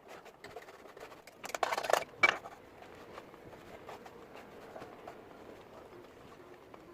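Hard objects being handled on a work surface: scattered light clicks, a short rasping scrape about a second and a half in, and a sharp clack just after it.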